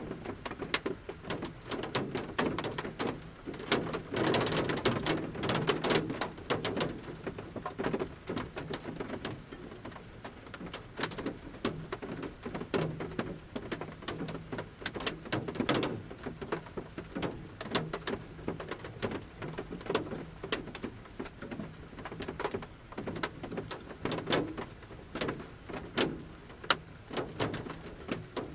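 Large raindrops falling from a forest canopy onto the metal roof of a camper van, heard from inside the van as irregular pattering ticks over a light rain hiss. The drops come in thicker flurries now and then.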